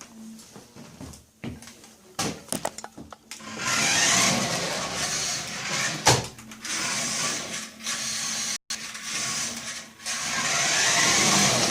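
Toy RC car's small electric drive motor and plastic gears whirring in bursts as it is driven, stopping and starting several times, with a single sharp knock about six seconds in.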